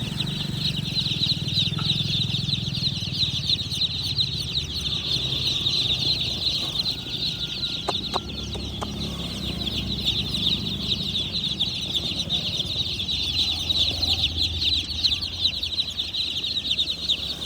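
A large group of young chicken chicks peeping nonstop, many high-pitched cheeps overlapping into a dense chorus, with a low rumble underneath.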